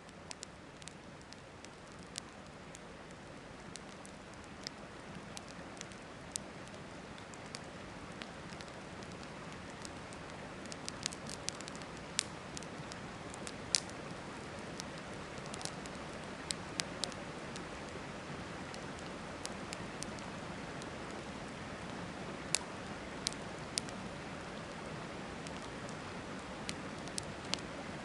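Wood campfire crackling with scattered sharp, irregular pops over the steady rush of a river, which grows slowly louder over the first ten seconds.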